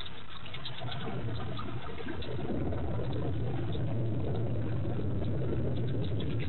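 Heavy rain falling during a storm, a steady rushing noise over a low hum, growing a little louder about two seconds in.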